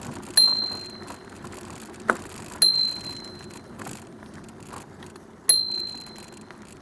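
Bicycle bell rung three times, each a single high ding that rings on and fades over about a second, to warn walkers ahead that a bike is coming; a short sharp click sounds between the first and second dings.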